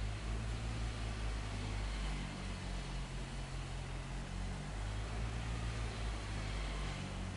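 Diesel engine of heavy earthmoving equipment running steadily with a low rumble and a wash of hiss.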